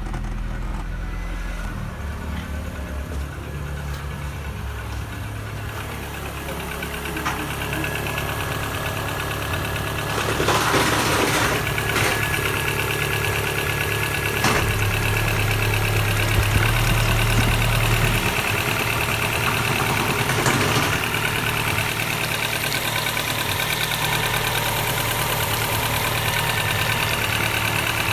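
Rover 200 1.4i K-series (14K2) four-cylinder petrol engine running at idle, its note shifting a few times and getting louder about ten seconds in.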